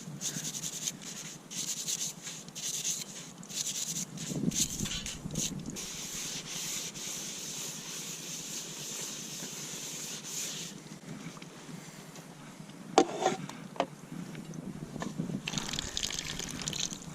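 Camp dishes being washed by hand: water sloshing and trickling with rough scrubbing for about ten seconds, then three sharp clinks of cookware knocking together, and scrubbing again near the end.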